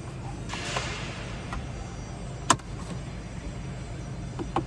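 Plastic dash trim panel being pried off a Ford F-150 interior, with a brief scraping rustle about half a second in and one sharp click about two and a half seconds in as a retaining clip pops free. A steady low hum runs underneath.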